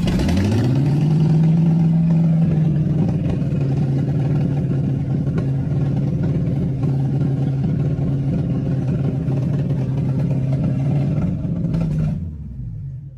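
Old car engine catching and revving up, running steadily for about twelve seconds, then dying away near the end: a stall that is put down to a carburetor that needs work, with the float's needle and seat possibly stuck.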